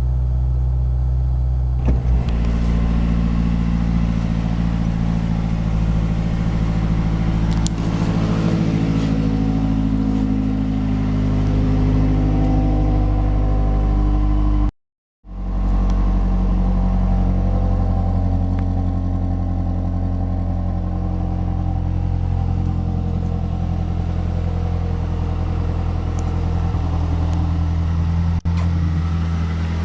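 2012 Mazdaspeed3's 2.3-litre turbocharged four-cylinder engine idling, its pitch shifting a little in places, with a brief dropout about halfway through.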